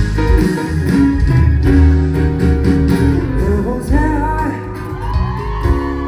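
Live band music led by guitar. A male singer comes in about four seconds in.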